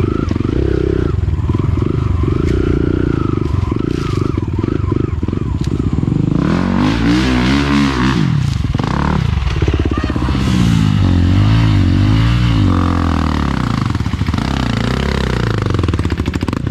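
Dirt bike engine running, fairly steady for the first few seconds, then revving up and down repeatedly.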